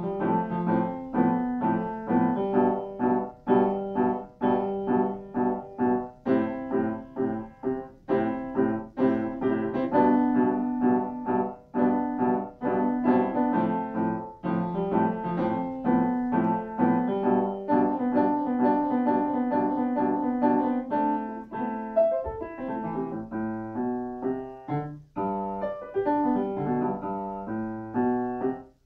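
Solo piano playing a fast, flowing piece of quick repeated note figures over held chords, thinning to sparser notes for a few seconds about 22 seconds in before the full pattern resumes.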